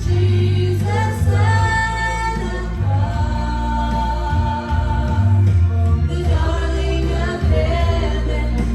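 Congregational worship music: a group of voices singing with instrumental accompaniment and a steady bass.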